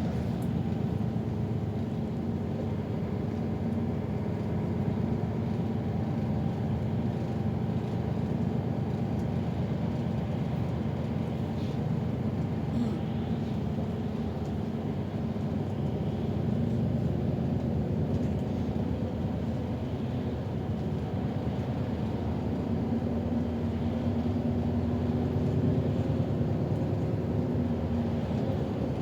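City bus driving, heard from inside the cabin: a steady engine and drivetrain hum with a few low tones that shift slightly in pitch as the bus changes speed.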